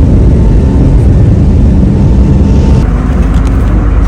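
Airliner cabin noise: a loud, steady low rumble of engines and rushing air.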